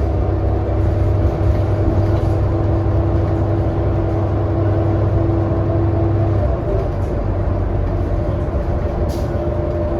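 Interior of a 2018 New Flyer XD40 diesel transit bus under way: a steady engine and drivetrain drone with a held whining tone over it, easing off about six and a half seconds in. A brief hiss sounds about nine seconds in.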